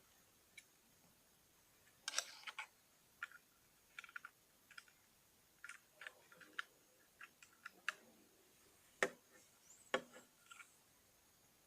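Lego bricks being handled and snapped together: scattered, irregular small plastic clicks, with two louder knocks near the end.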